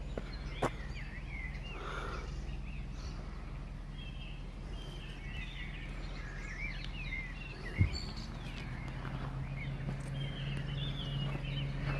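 Birds chirping in short, repeated calls over a low steady hum that grows a little louder near the end, with a single thump about eight seconds in.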